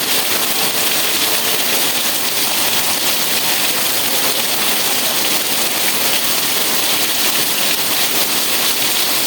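Steady rain falling: an even, unbroken hiss with no separate drops or pauses.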